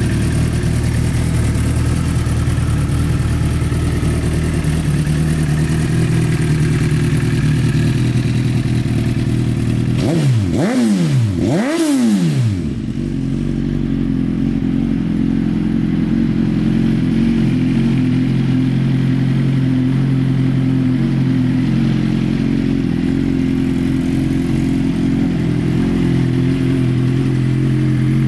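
2009 Suzuki GSX-R1000's inline-four engine idling steadily, blipped twice in quick succession about ten seconds in, the revs rising and falling back to idle each time.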